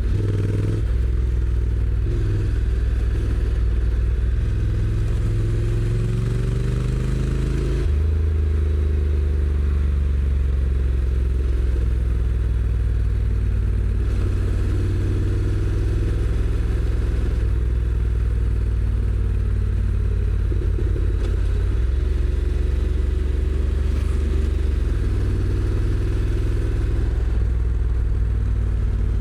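Honda NC750X's 745 cc parallel-twin engine through its stock exhaust, pulling the bike along. Its pitch rises steadily for several seconds, then drops sharply about eight seconds in as the DCT gearbox shifts up. It then runs steadier, with a few more short rises and drops in pitch.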